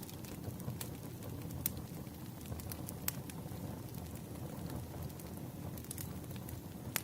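Wood fire crackling: a low steady rumble with scattered sharp pops every second or so.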